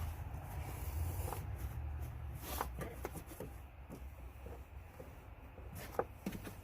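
Scattered small clicks and taps of hands working at the plastic electrical connector on an idle air control valve, trying to unclip it, over a steady low hum.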